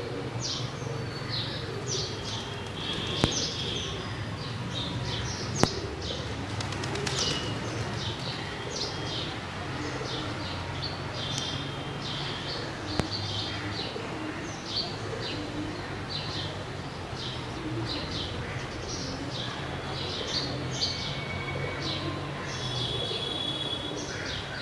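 Pigeons cooing low and steadily, with many short high chirps from birds throughout and a few sharp clicks.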